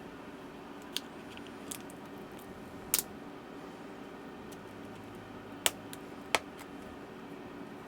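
Five sharp clicks and taps of plastic spudgers prying at the glued-in battery cells of a 2012 MacBook Pro Retina, the loudest about three seconds in and two close together near the end, over a steady low hum.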